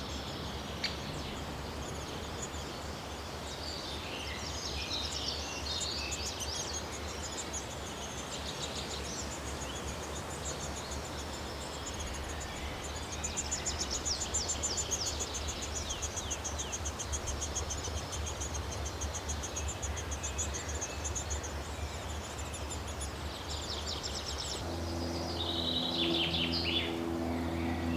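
High-pitched bird chirps and calls repeating in quick runs against a steady outdoor background. Near the end a steady low hum with several tones comes in.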